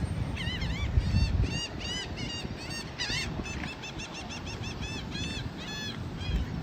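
Gulls calling, many short arched cries in quick succession, several a second, over a steady low rumble.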